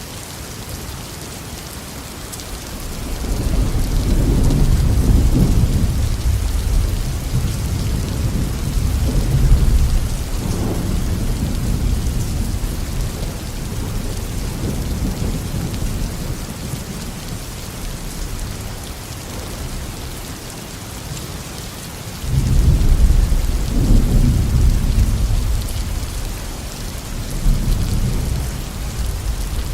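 Steady tropical rain falling, with rolling thunder: a long low rumble builds about three seconds in and fades away over several seconds, then a second thunderclap starts suddenly about twenty-two seconds in and rumbles on.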